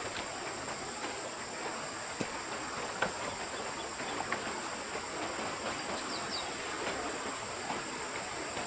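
Stream water running steadily, with a constant high insect drone above it. A couple of short bird chirps come a little past the middle, and a few faint ticks are scattered throughout.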